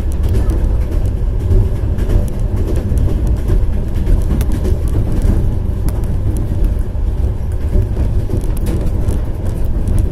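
Passenger train running at speed, heard from inside the carriage: a steady low rumble of wheels on rails, with faint scattered clicks over it.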